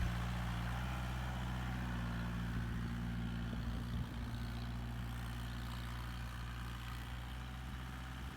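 Mahindra tractor engine running steadily at a low, even hum.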